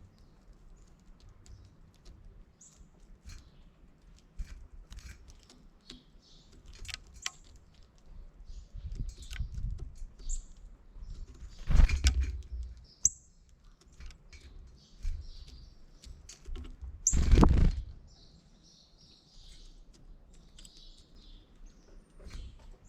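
Small birds chirping around a backyard bird feeder: many short, high chirps scattered throughout. Twice, around the middle and about three-quarters of the way through, there is a louder rush of noise lasting about a second.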